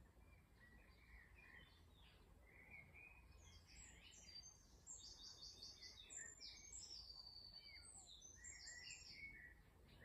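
Faint songbirds singing and chirping, with a run of high, rapidly repeated notes in the second half, over a low steady background rumble.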